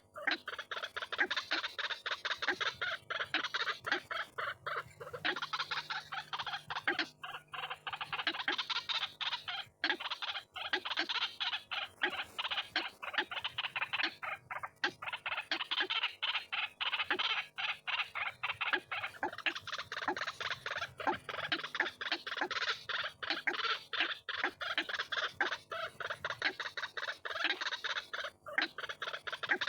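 White-breasted waterhen (ruak-ruak) calling: harsh, rapid notes repeated several times a second in long, unbroken bouts that swell and fade, with only a few brief breaks.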